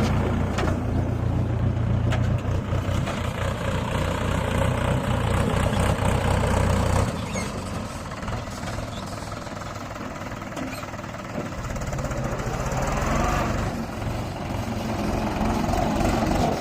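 Tractor diesel engine running hard under load as it pulls a heavily loaded trolley. The low engine rumble is loudest for the first seven seconds, drops off suddenly about seven seconds in, then builds again near the end.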